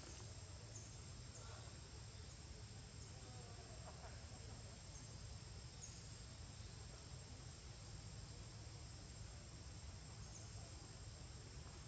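Faint outdoor ambience: a steady high-pitched insect drone with a few short, higher chirps now and then, over a low rumble.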